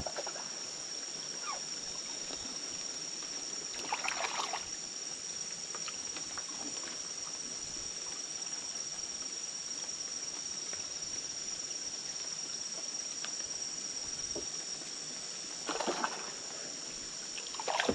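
Water lapping and sloshing around a small boat, under a steady high-pitched insect drone of the rainforest. A brief louder noise comes about four seconds in and again near the end.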